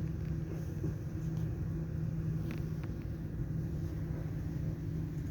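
Train running along the track: a steady low rumble with a constant hum, and a couple of faint clicks about two and a half seconds in.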